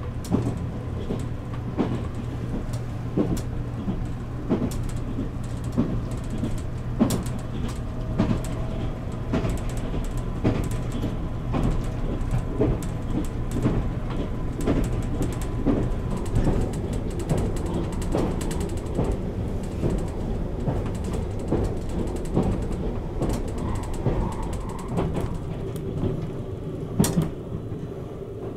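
Interior running noise of a JR Kyushu Nichirin limited express, heard inside its compartment: a steady low rumble with frequent irregular creaks and clicks from the car body and fittings as the train rides the rails.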